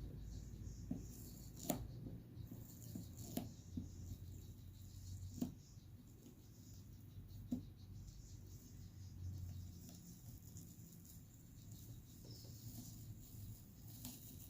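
A few sharp light clicks or knocks, spaced a couple of seconds apart, over a low steady hum.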